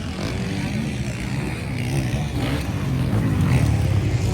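Motocross motorcycle engines racing, revving up and down as the riders work the throttle, growing louder over the last couple of seconds.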